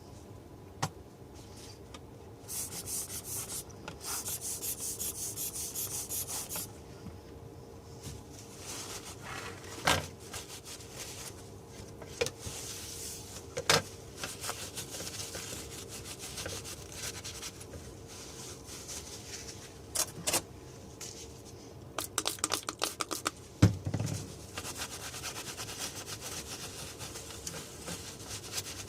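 Rubbing and scraping on a hard surface in short spells, with scattered clicks and taps, a quick run of taps about 22 seconds in, and a heavier knock just after; a faint steady hum sits underneath.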